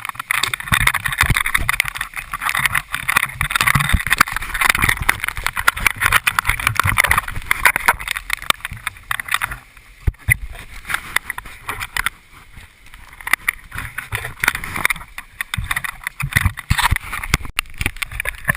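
Typhoon wind gusting and buffeting the microphone: a rushing noise with low rumbles that rises and falls, easing about halfway through before picking up again.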